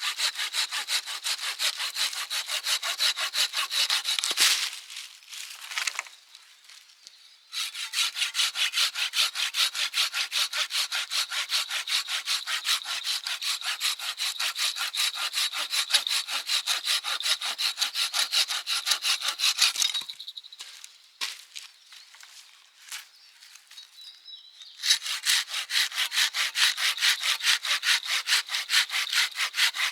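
Hand saw cutting firewood in quick, even back-and-forth strokes. The sawing comes in three runs, with two short pauses broken only by a few light knocks.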